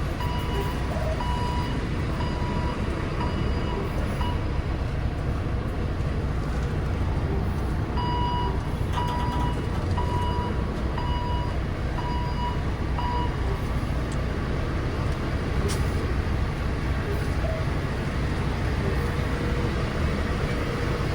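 Semi truck's diesel engine running low and steady while reversing slowly, with a reverse-alarm beeper sounding a little more than once a second in two stretches, at the start and again around the middle.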